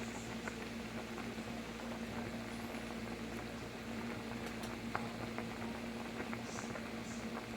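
Pot of soup bubbling on the stove, with scattered small pops over a steady hum.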